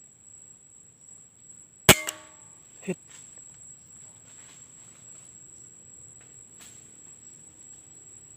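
A single air rifle shot: one sharp crack with a brief metallic ring, followed about a second later by a duller knock. A steady high-pitched insect drone runs underneath.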